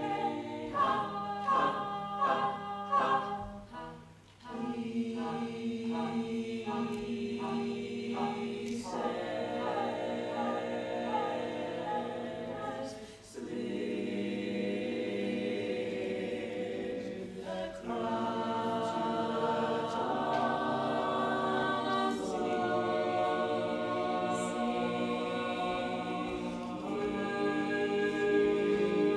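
Choir singing in harmony: a run of short, detached notes in the first few seconds, then long held chords, with brief breaks about four and thirteen seconds in.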